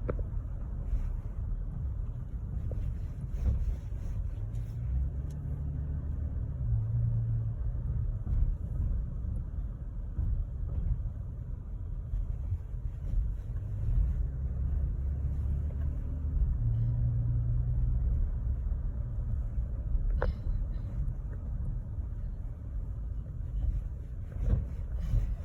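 Pickup truck on the move: a steady low engine and road rumble, with the engine note swelling and shifting a couple of times, and a short sharp click about twenty seconds in.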